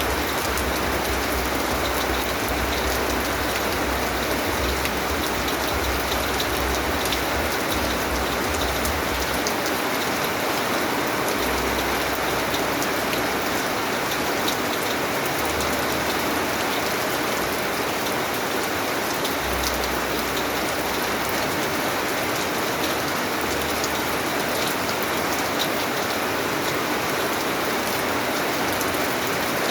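Steady rain falling, a dense even hiss with many small drop ticks, under a low rumble that comes and goes every few seconds.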